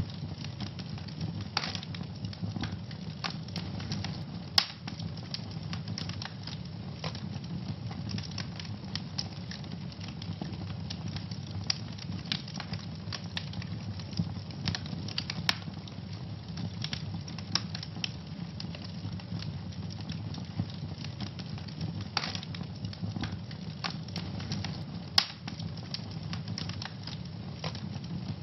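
Wood fire burning in a fireplace, crackling with frequent small irregular snaps and a few sharper pops over a low steady rumble of flame.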